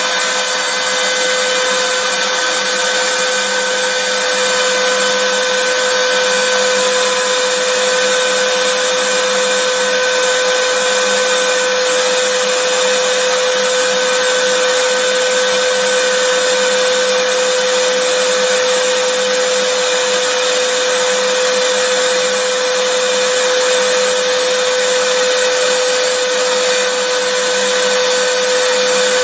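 Vacuum cleaner motor running steadily, a loud even rushing of air over a constant hum with a clear tone and fainter overtones above it.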